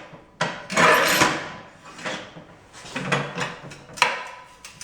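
The carriage of a worn Rubi TS 50 tile snap cutter is pushed along its rails. A long sliding scrape about half a second in is followed by shorter scrapes and sharp clicks. The worn carriage parts make it run unevenly and bind.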